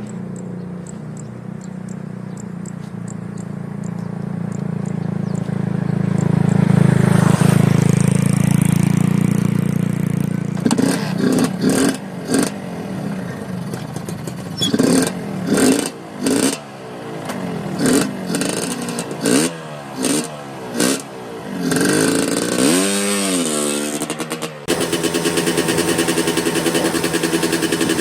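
Suzuki Satria 'lumba' two-stroke motorcycle engine: a steady hum that swells, then a string of short throttle blips about once a second, one rev sweeping up and back down, and then a steady buzzing run near the end.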